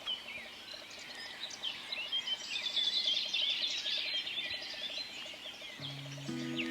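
Many songbirds singing at once, a dense mix of overlapping chirps and trills. Guitar-like music comes in near the end.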